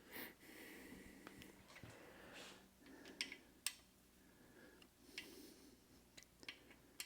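Near silence: small-room tone with faint breaths and a few light clicks.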